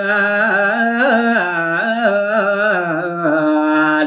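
Solo male voice singing a Balinese tembang in pupuh Sinom, unaccompanied, drawing out long held notes with wavering melismatic ornaments.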